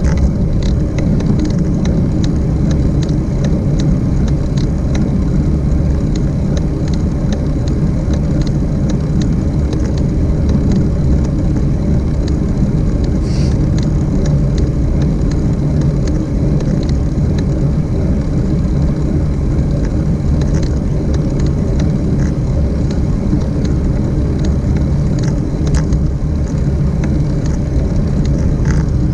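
Steady low rumble of wind buffeting the microphone and road noise while riding, with faint scattered clicks throughout.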